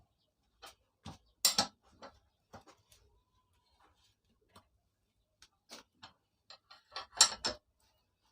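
Irregular metallic clicks and clanks of hand tools and parts being handled while a rusted chainsaw is stripped down. The loudest knocks come about a second and a half in and again near the end.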